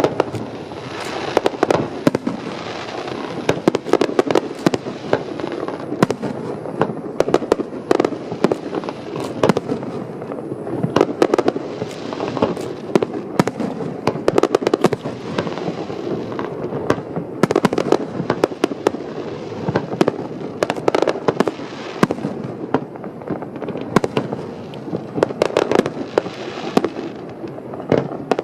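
Aerial fireworks display in full barrage: a rapid, continuous run of sharp bangs from shells bursting, over steady crackling.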